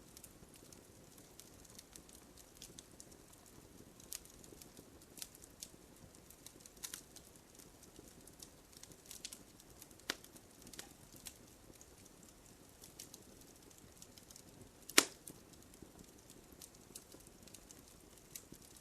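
Wood fire crackling, with irregular small pops and snaps over a low hiss and one loud, sharp pop about three-quarters of the way through.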